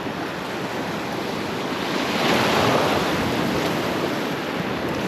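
Ocean surf washing in, a wave swelling louder about two seconds in.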